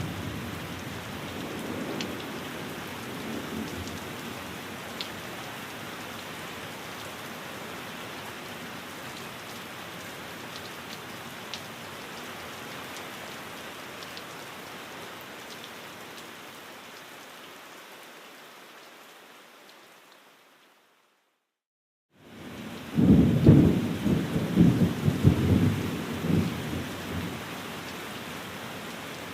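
Steady rain falling, with the low rumble of thunder. About two-thirds of the way in, the rain fades out to a second of silence, then comes back in with a loud rolling rumble of thunder that dies away to steady rain.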